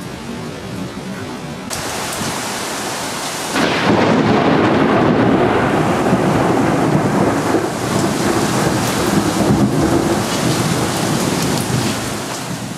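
Thunderstorm: rain and rolling thunder. It grows louder about two seconds in, then jumps abruptly at about three and a half seconds to a loud, continuous rumble and downpour that holds.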